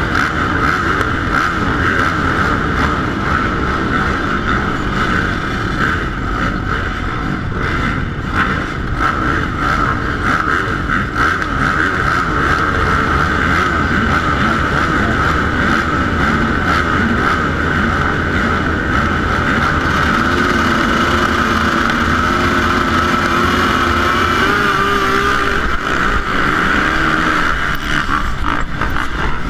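450-class motocross bike engines running and revving continuously through a race, the pitch shifting as riders go on and off the throttle.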